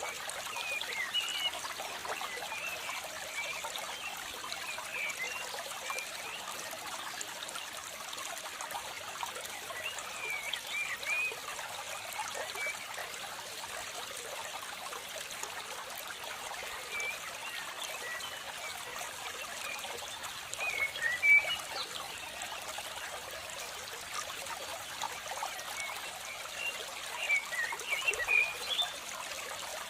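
Steady trickling, running water like a small stream, with clusters of short high chirps every few seconds.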